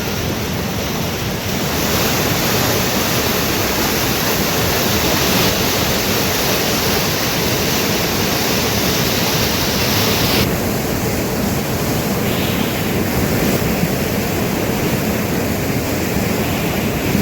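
Rushing water of a strong-flowing, monsoon-swollen mountain river: a loud, steady noise with no breaks, growing louder about two seconds in.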